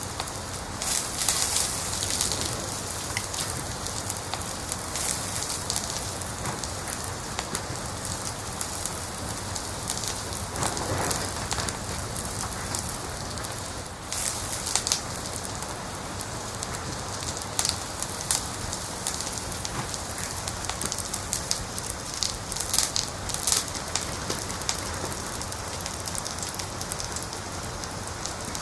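Wood fire burning in a fireplace, crackling steadily under a constant hiss, with frequent sharp pops and snaps scattered irregularly throughout.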